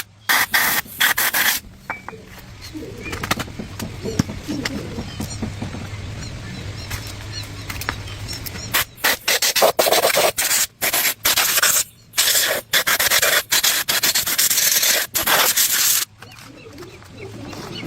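Repeated hand-worked abrasive strokes scraping and rubbing against a rusty part, in uneven bursts with short gaps between them.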